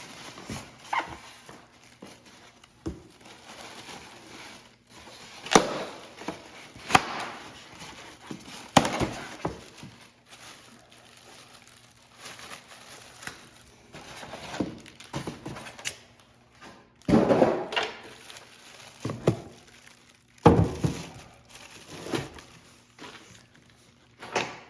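Irregular thumps and knocks of shipping boxes and heavy parts being handled during unpacking, with a few longer scraping bursts from the cardboard boxes.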